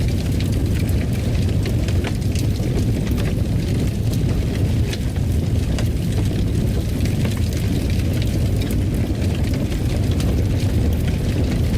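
Fireplace fire crackling: a steady low rumble with frequent small, irregular pops and crackles.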